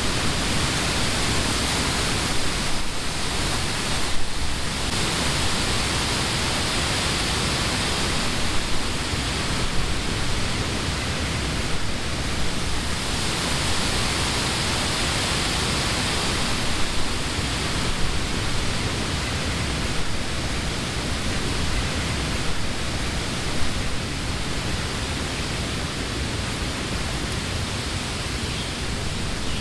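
Summer wind blowing through the leafy trees of a wood: a steady rushing of leaves that swells in gusts twice, a few seconds in and again around the middle.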